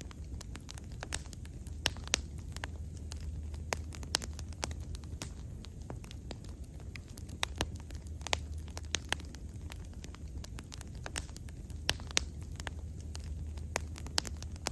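Wood bonfire crackling, with frequent irregular sharp pops and snaps of burning wood over a steady low rumble.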